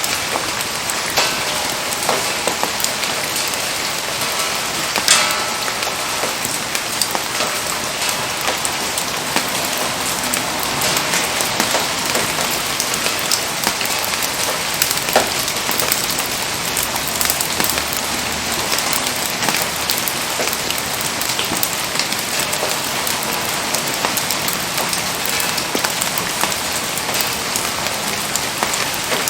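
Steady rain falling, an even hiss dotted with many small sharp ticks of drops striking surfaces.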